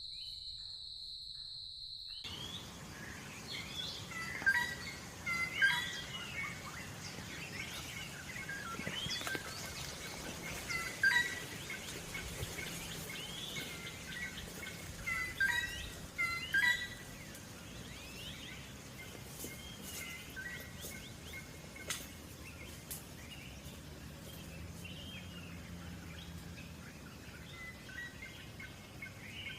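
A steady high-pitched insect trill cuts off suddenly about two seconds in. After it, several birds chirp and call in short repeated notes, busiest in the first half, over a faint even hiss of forest ambience.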